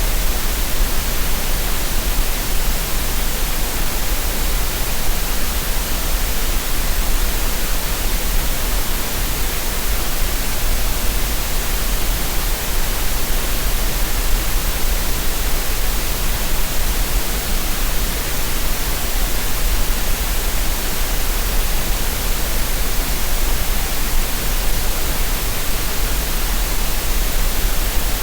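Steady generated green noise, an even, unchanging hiss with a deep low rumble beneath it, made as a masking sound for relaxation and tinnitus.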